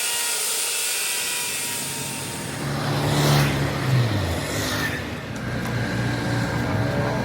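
A vehicle engine running, its pitch dropping about four seconds in and then holding steady, under a high hiss that fades after the first couple of seconds.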